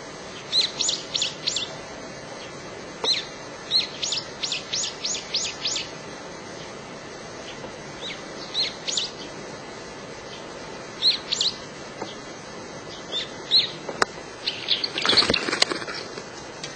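A small songbird singing in short phrases of quick, sharp chirps, each note falling in pitch, with a phrase every second or two and a louder, busier flurry near the end.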